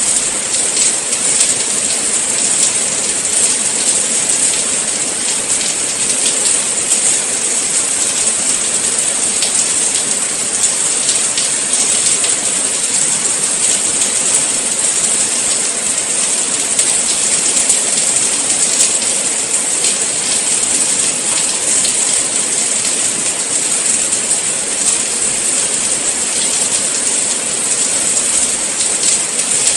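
Steady rain falling: an even hiss with faint scattered ticks of individual drops.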